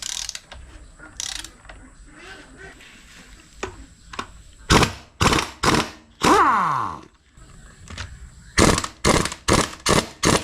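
Tools working on the engine's fasteners: three short, sharp mechanical strokes about halfway in, then a longer one with a falling whine, and near the end a steady run of strokes about three a second.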